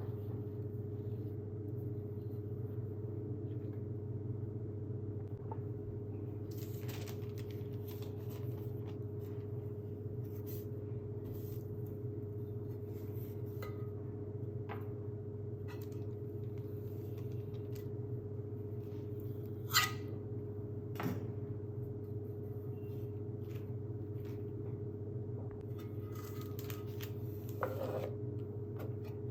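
Steady low electrical hum with a few light clicks and taps of cake-decorating utensils being handled; the two sharpest taps come close together about two-thirds of the way in.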